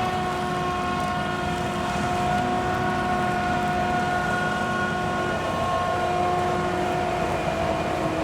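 Heavy farm machinery running steadily under load, a constant engine rumble with a high, steady whine over it.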